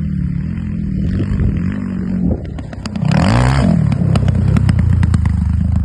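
Off-road motorcycle engine revving up and down, easing briefly, then opening up louder about three seconds in and holding high revs, with a run of sharp clicks in the second half.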